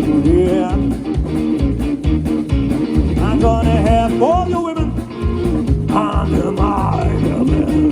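Live blues-rock band playing: an electric guitar lead with notes bending up and down in pitch over drums and bass.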